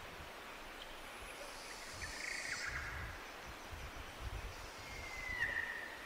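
Birds calling in a forest over a faint steady hiss and low rumble. There is a short cluster of notes about two seconds in, and near the end a long held whistle that drops in pitch as it stops.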